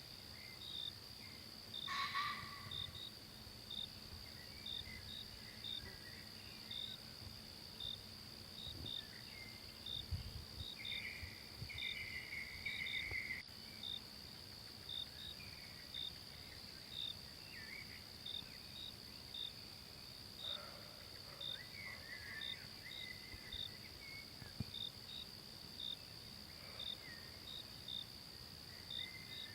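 Forest ambience: a steady high insect trill with short regular chirps, about one and a half a second, and occasional bird calls scattered through.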